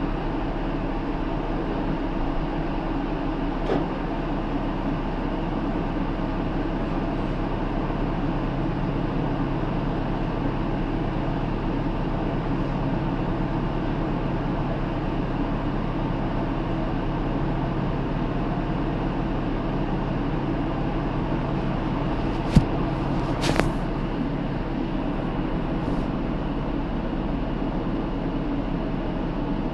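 Cabin running noise of a Hino Rainbow II (PDG-KR234J2) city bus under way: a steady diesel engine drone with road noise. A sharp knock and a brief rattle come about two-thirds of the way through.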